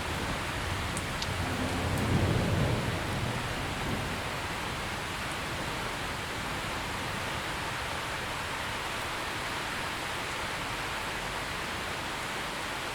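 Steady heavy rain, an even hiss, with a low roll of thunder swelling about two seconds in and fading away by about four seconds.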